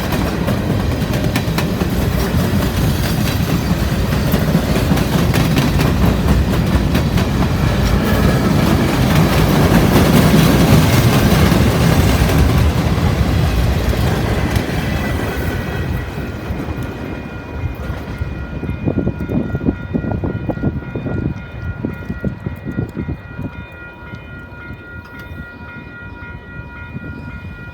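A train passing close by: loud rumble and wheels clacking over rail joints, swelling about ten seconds in and then fading over the last third. As it fades, a repeated ringing tone that keeps steady pitch continues.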